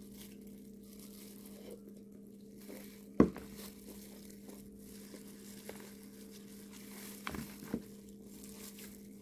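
Quiet handling of a seafood boil: small crinkles and clicks of shells, gloves and plastic packaging being worked by hand, with one sharp click about three seconds in and two smaller ones near the end, over a steady low hum.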